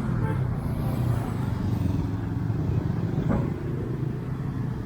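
Road traffic: motor vehicles passing with a steady low engine hum.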